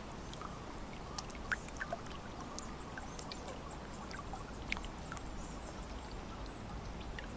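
Lake water lapping gently at the shore, with scattered small splashes and clicks over a steady low wash. Faint, brief bird calls come through now and then.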